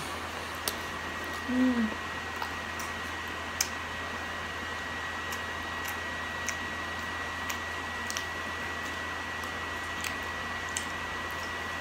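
A person chewing a mouthful of cheeseburger, with soft wet mouth clicks and smacks scattered through, over a steady hiss and a thin high whine. A brief voice sound comes about one and a half seconds in.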